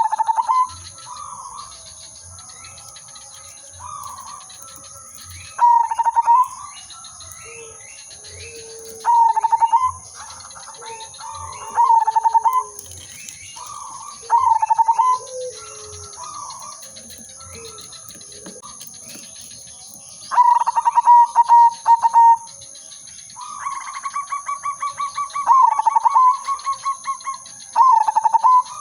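Zebra dove (perkutut) singing: short stuttering coos about a second long, repeated every few seconds. Near the end come two longer rolling runs of rapid coos. Fainter calls of other birds and a steady high-pitched whine sound behind.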